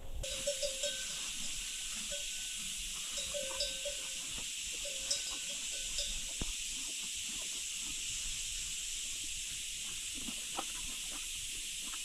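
A livestock neck bell clinking a few times in short bursts during the first half, over a steady hiss.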